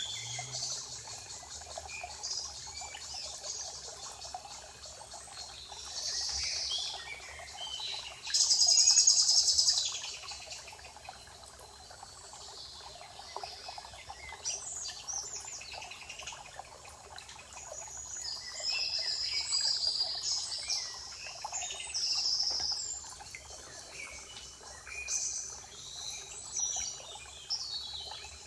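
Several songbirds singing and calling in a spring forest, with overlapping high chirps and phrases. A loud, rapid trill comes about eight seconds in, over a faint steady background hiss.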